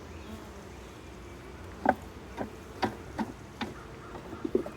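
Wooden hive frame knocking against the deep box as it is set in: several sharp clicks and knocks from about two seconds in, over the steady hum of honey bees.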